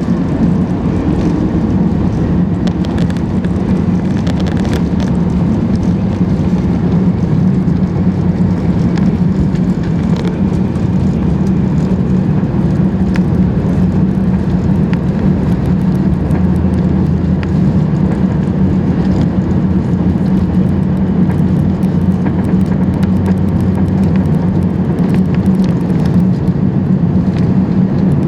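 Airbus A380 cabin noise from a lower-deck economy seat: a steady drone from its Rolls-Royce Trent 900 engines and the airflow, with a constant low hum and light clicks and rattles here and there.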